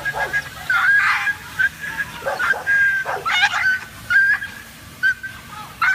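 A dog barking repeatedly in short calls, with high-pitched whining between the barks.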